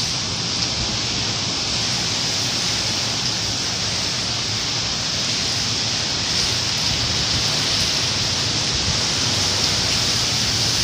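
Heavy rain pouring down steadily in a storm, a dense even hiss.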